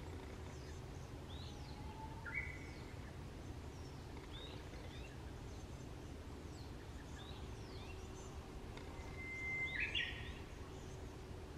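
Birds singing in the background: scattered short chirps throughout, a brief held whistle about two seconds in, and a longer held whistle ending in a quick higher flourish near the end, the loudest sound. Underneath runs a steady low outdoor rumble.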